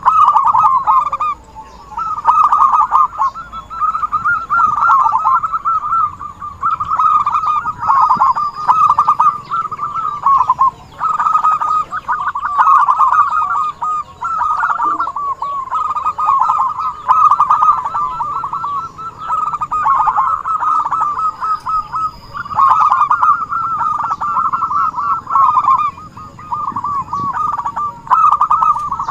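Zebra dove (perkutut) cooing in steady, frequent song: rapid trilled coo phrases, each about one to two seconds long, repeated one after another with short gaps.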